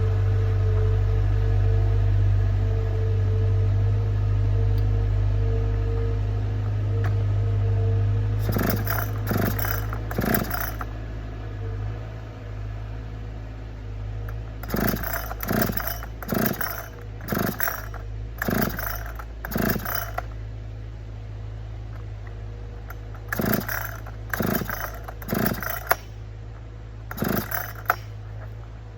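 Chainsaw running at a steady low idle, with groups of short, loud bursts about a second apart, each lasting about half a second.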